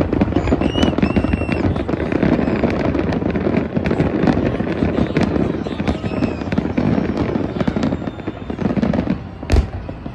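Aerial fireworks going off in a rapid, continuous barrage of booms and crackles, with one sharp, loud bang near the end.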